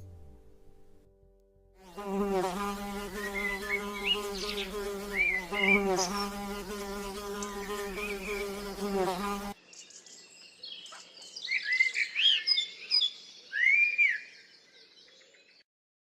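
A flying insect buzzing steadily, with small birds chirping over it; the buzz cuts off suddenly about halfway through, leaving only the bird chirps and whistles.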